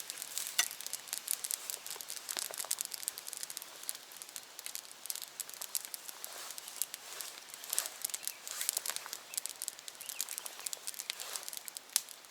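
Campfire crackling with many irregular sharp snaps, mixed with the crinkling of plastic food packaging handled during a meal.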